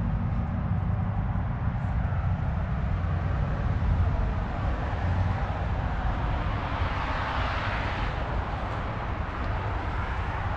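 Distant road traffic: a steady low hum, with one passing vehicle's noise swelling and fading about seven seconds in.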